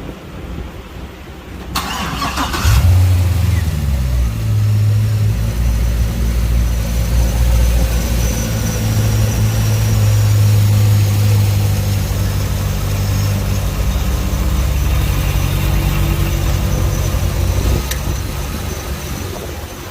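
Chevrolet Corvette engine started: the starter cranks briefly about two seconds in, then the engine catches with a flare of revs that drops back to a steady idle. The idle softens a little near the end.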